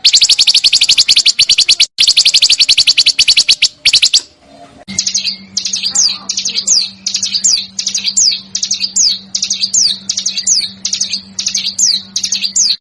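Recorded small songbirds singing: a fast, harsh rattling trill for about four seconds, then, after a short break, a run of quick descending whistled notes, two or three a second, over a faint low hum.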